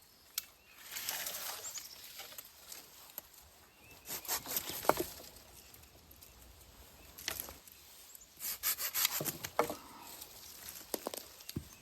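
Wood being worked by hand for a fire: scraping, rubbing strokes and wooden knocks, with a quick run of strokes about eight and a half seconds in and a few sharp knocks near the end.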